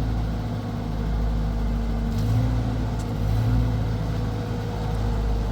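An engine running steadily, a loud low hum with a slight rise and fall in level.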